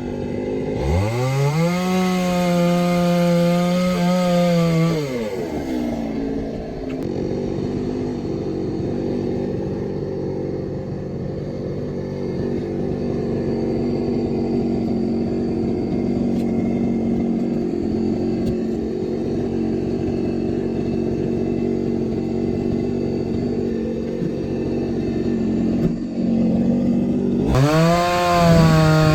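Two-stroke chainsaw revving to full throttle, then running steadily at a lower pitch for about twenty seconds while cutting into a log for firewood. It revs up high again near the end.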